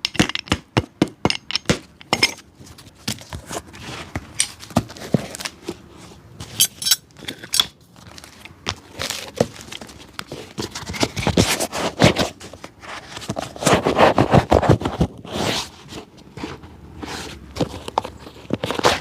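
A cobbler working on a shoe by hand: a quick run of sharp taps in the first two seconds, then irregular scraping and rubbing strokes that grow loudest from about eleven to sixteen seconds in.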